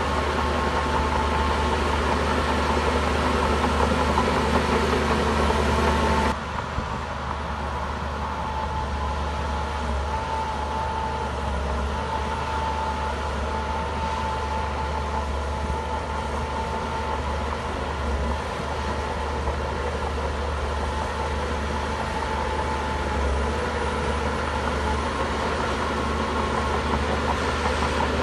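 Shantui bulldozer's diesel engine running steadily with a deep hum and a steady whine. The sound changes abruptly about six seconds in, then runs on evenly.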